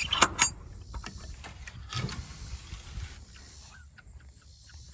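Chickens in a pen making faint calls over quiet background noise, with a few sharp clicks in the first half second.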